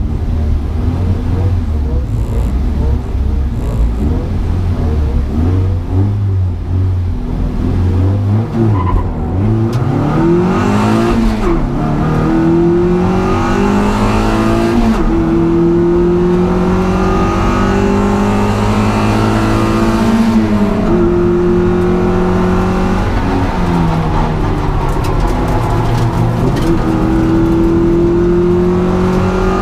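Race car engine, low and steady at first, then revving up through the gears from about nine seconds in, its pitch climbing and dropping back at each of several upshifts.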